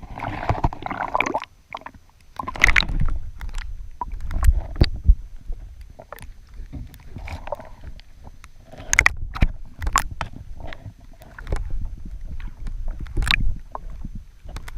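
Water sloshing and gurgling around an underwater camera on a kayak, with irregular knocks and clicks and a deep rumble. Several short splashy washes come and go.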